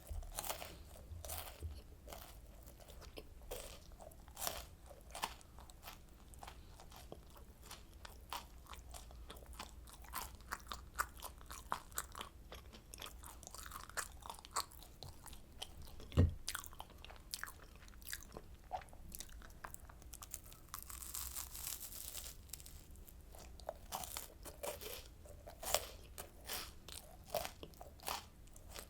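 Close-miked crunching and chewing of oranda, a Korean puffed-grain candy bound with syrup: many crisp, irregular crunches throughout. One low thump about sixteen seconds in.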